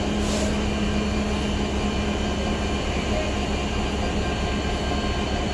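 Steady rumble of a passenger train, with a steady hum that fades out about three seconds in.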